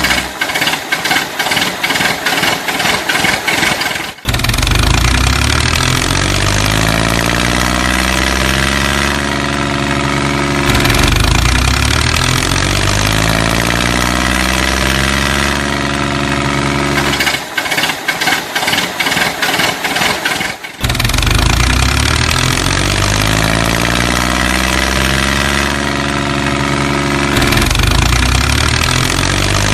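Diesel tractor engine: a rapid clatter for about four seconds with no low rumble, then the engine running with its pitch rising and falling. The same sequence starts over about 17 seconds in, like a looped recording.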